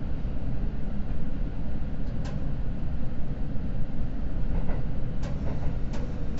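Steady low rumble inside a Seibu Red Arrow limited express train's passenger car, with a few short sharp clicks, about two, five and six seconds in.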